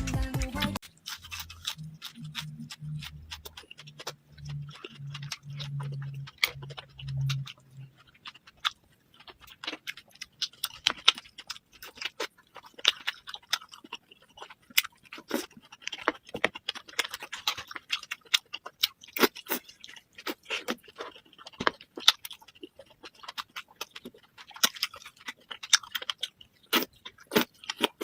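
Close-miked eating: a person chewing and smacking, a dense run of irregular sharp, moist clicks and crunches. A faint low pulsing runs under it for the first several seconds.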